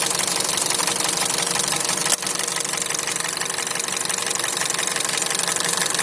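Warm Hyundai/Kia G4NA 2.0-litre inline-four idling with a steady, rapid knock, the sign of a scored (scuffed) fourth cylinder. A single sharp click sounds about two seconds in.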